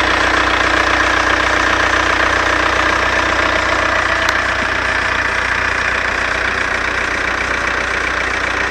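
Seat Córdoba engine running steadily at idle, carrying a strange noise that the owner puts down to the alternator belt, cause unknown.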